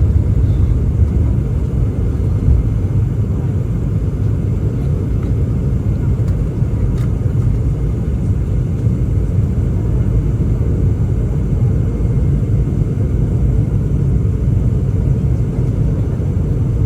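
Boeing 717 cabin during the initial climb just after liftoff: the tail-mounted Rolls-Royce BR715 turbofans at climb power and rushing airflow make a steady low rumble.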